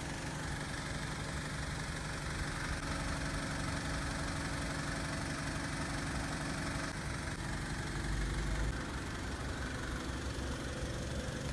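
BMW 320i E90's naturally aspirated 2.0-litre N46 four-cylinder idling steadily, heard from outside the car.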